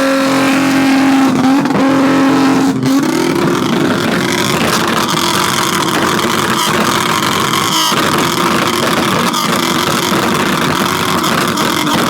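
Car engine running loud and revving, its note holding steady and then climbing about three seconds in.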